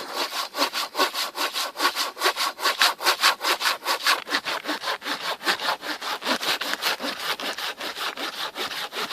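Old Soviet-made hand saw cutting through a log in quick, even back-and-forth strokes, about three or four a second. It is cutting well.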